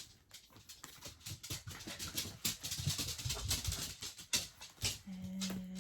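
Paper and plastic packaging rustling and clicking as small printed items are handled, with a short steady hum near the end.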